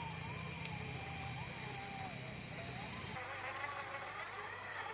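Electric motor and gearbox of an RC log truck whining. The pitch rises and falls smoothly as the throttle changes, and a low rumble drops away about three seconds in.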